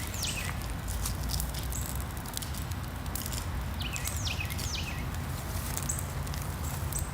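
A burning pile of dead branches crackling with irregular sharp pops. Short high whistles fall in pitch twice, just after the start and about four seconds in.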